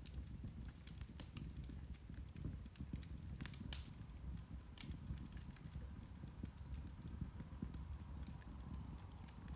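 Irish turf (peat) fire burning, a faint low rumble with scattered crackles and pops, one sharper crack a little before halfway.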